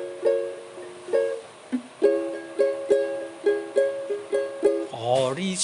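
Ukulele strumming chords in a steady rhythm, with a short break a little over a second in before the strumming resumes; a brief rising glide sounds near the end.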